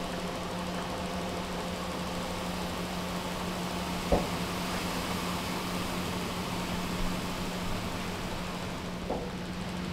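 Heavy harvest machinery running steadily with a constant engine hum. A short sharp knock comes about four seconds in, and a lighter one near the end.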